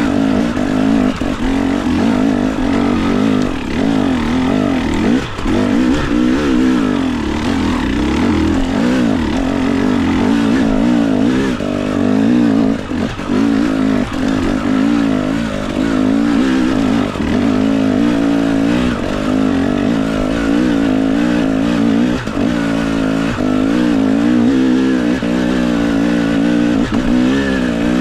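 Dirt bike engine running under constantly changing throttle, revs rising and falling over and over, with brief drops in loudness.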